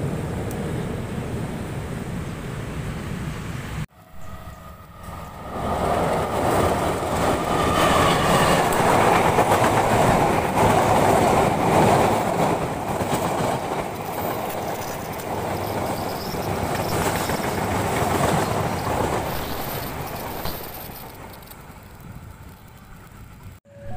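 Passenger train coaches rolling past close by onto a steel truss bridge, wheels running on the rails. After a sudden break about four seconds in, the noise builds, is loudest in the middle and fades near the end.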